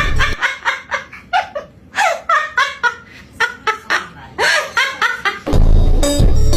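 A bird calling in a rapid laugh-like series of short notes, several a second, many sliding down in pitch. Background music with a beat stops just after the start and comes back near the end.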